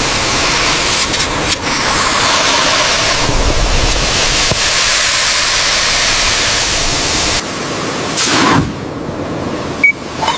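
A steady, loud hiss of a pressurised spray, with a few light clicks, which drops off about seven seconds in and swells briefly once more.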